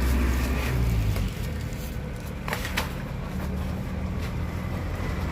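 A motor vehicle's engine running close by, its low hum dropping away about a second in, then a lighter engine hum with a couple of sharp clicks near the middle.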